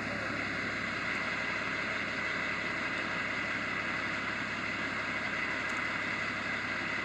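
Crane's engine running steadily at an even pace, with a constant high whine over the low running sound.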